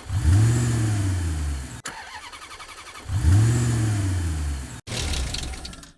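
An engine revs up and winds back down twice, each time for just under two seconds, with a quieter, steady running sound between the two revs. Each rev breaks off abruptly.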